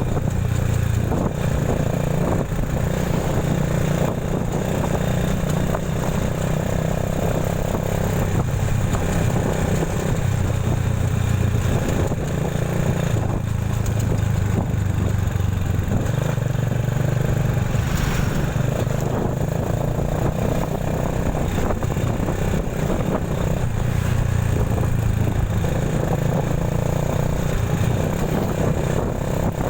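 Motorcycle riding along a road: a steady engine drone that swells and eases every few seconds, under a constant haze of road and wind noise.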